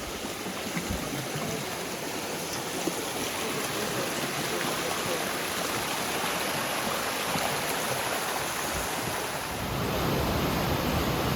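Steady rushing of a rainforest stream, growing louder and fuller about nine and a half seconds in.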